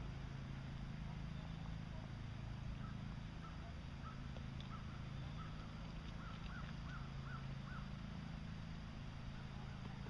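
Quiet outdoor ambience: a steady low hum, with a run of faint, short bird calls through the middle.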